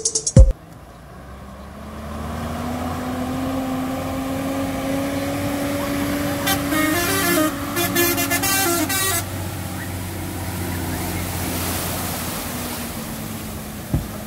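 Street traffic: a motor vehicle's engine runs steadily, its pitch drifting slowly up and then down. A horn sounds a series of short toots between about six and nine seconds in.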